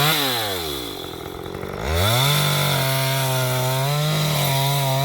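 Chainsaw revved briefly and let back to idle, then about two seconds in opened up to full throttle and held there, cutting through the last of a log.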